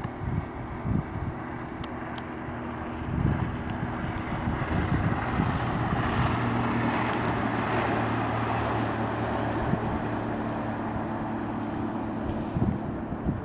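Mercury 25 hp outboard motor running steadily as the boat moves, with water rushing along the hull and wind buffeting the microphone. The rush of water swells through the middle.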